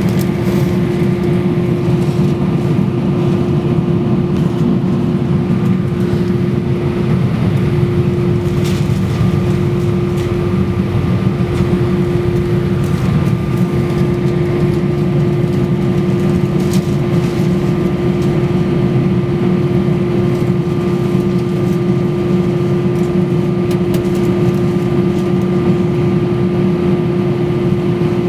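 Inside the cabin of an Airbus A320-232, its IAE V2500 engines run steadily, a constant whine over a low rumble that neither rises nor falls.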